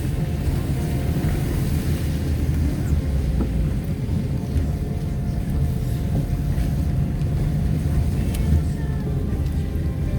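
A vehicle driving along, with a steady low engine and road rumble and quiet music faintly underneath.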